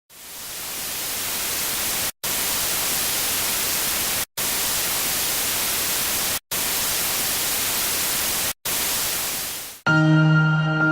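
Loud static hiss, like white noise, fading in at the start and broken by four brief dropouts into roughly two-second stretches. About ten seconds in it stops, and calm ambient music with long held tones begins.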